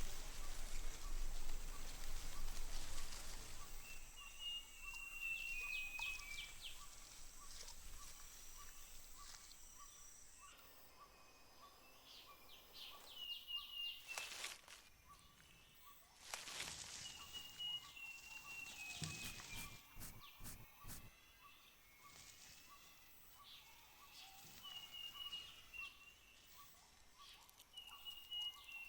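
Rainforest ambience. Rain patter fades out in the first few seconds. A bird repeats a short phrase of high notes stepping downward every several seconds over a steady, fast-pulsing insect chorus, with a few brief rustles about halfway through.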